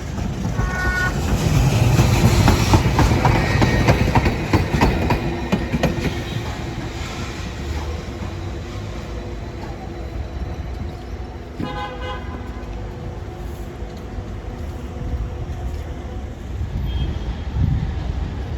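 Street tram passing close by, its wheels and running gear rumbling and clattering, loudest from about one to six seconds in, then settling to a steadier hum. A horn toots briefly just after the start and again about twelve seconds in.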